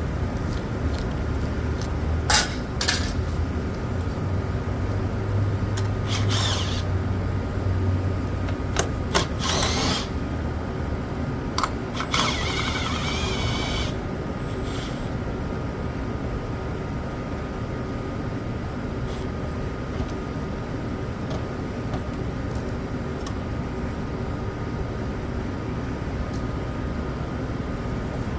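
Handheld power tool running in short bursts, the longest about two seconds, among sharp clicks and knocks of metal parts being handled. A steady machinery hum runs underneath.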